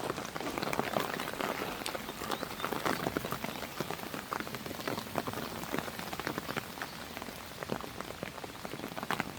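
Steady rain falling on a surface, many individual drops ticking irregularly and close together.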